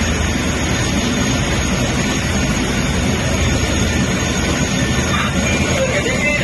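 Military helicopters running, a loud steady mix of turbine-engine noise and rapid rotor chop.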